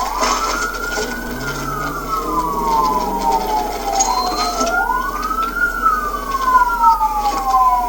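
Police car sirens wailing: each one rises quickly and falls slowly in long sweeps, with two sirens overlapping out of step.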